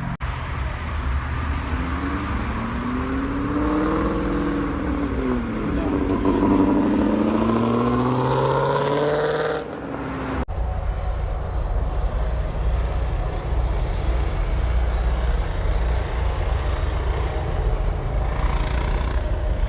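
A car engine revving: its pitch falls and rises, then climbs higher. About halfway in it cuts abruptly to a steady low engine rumble.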